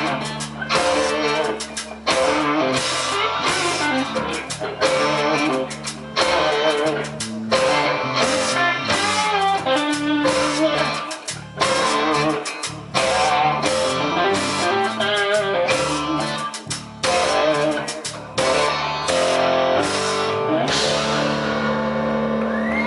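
Live rock band playing, electric guitar over a drum kit, then a chord held and ringing near the end as the song finishes.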